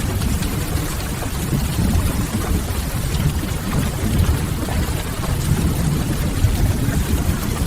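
Mixed rain-and-fireplace ambience: a steady rush of rain with a deep low rumble underneath, even throughout with no single event standing out.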